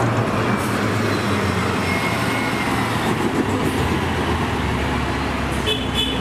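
Loud, steady rumbling of a vehicle in motion, train-like, that starts and cuts off abruptly like an inserted sound clip.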